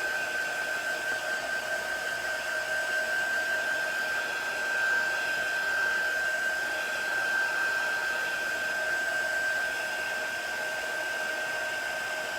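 Handheld blow dryer running steadily, a rushing airflow with a high steady whine, drying still-wet chalk paste.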